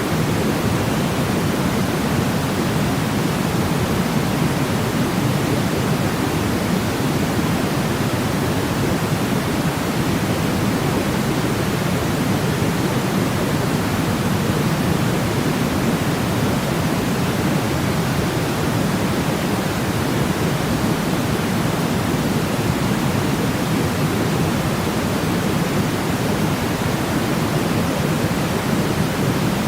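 Steady white noise played for sleep, an even hiss that never changes, weighted toward the low and middle range rather than the highs, like pink noise.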